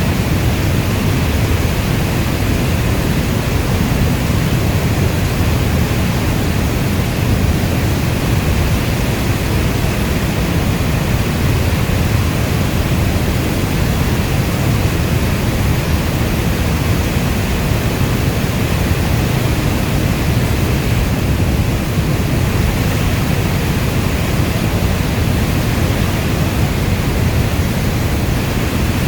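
Steady heavy rainfall: a dense, even wash of rain noise weighted toward a deep low rumble, with no thunder and no single drops standing out.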